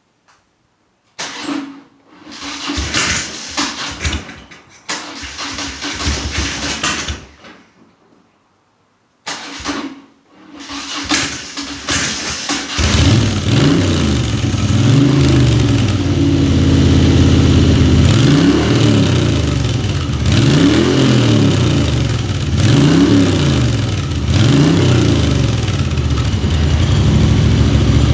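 Moto Guzzi motorcycle engine being cranked on the starter in two tries with a pause between, catching on the second about halfway through, on its first start after a top-end rebuild with new piston rings. Once running it is revved up and down several times.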